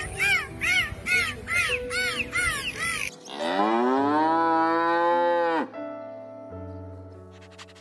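Dolphin calling in a quick run of short rising-and-falling squeaks, about three a second, which stop about three seconds in. Then a cow gives one long moo that rises, holds and falls away.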